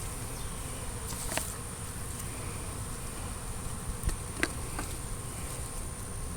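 Honey bees buzzing in flight around a swarm that has just been knocked off a tree limb into a nuc box, with a few light clicks.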